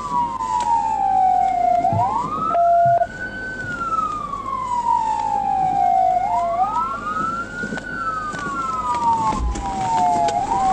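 Police car siren on wail: two slightly offset siren tones sweep slowly down, then quickly back up, about every four seconds. A short steady beep sounds about two and a half seconds in.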